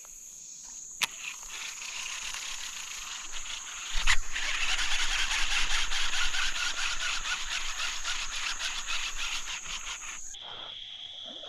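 Steady high insect buzzing, with a fast rhythmic clatter from about four seconds in until near the end, typical of a buzzbait's blade churning across the water surface on the retrieve.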